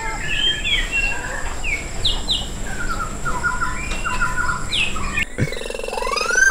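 Birds chirping in many quick, short repeated notes. Near the end a common hill myna starts a loud whistle that rises and then wavers up and down.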